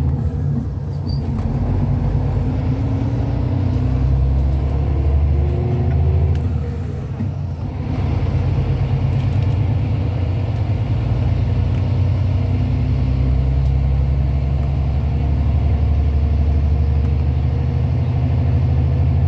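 Cabin sound of a Hyundai Universe Space Luxury coach on the move: a steady low engine and road rumble, which dips briefly about seven seconds in and then picks up again.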